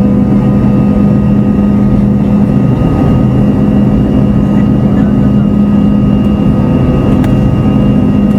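Fokker 70's Rolls-Royce Tay turbofan engines running with a steady buzz, several constant tones over a broad engine noise.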